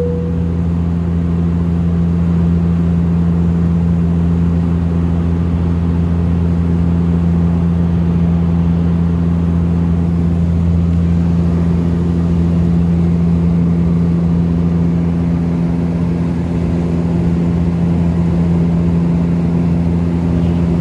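Steady cabin drone of a Dash 8 turboprop airliner in flight: the low, even hum of its propellers and engines, a few fixed pitches that hold unchanged throughout. A single short tone sounds right at the start.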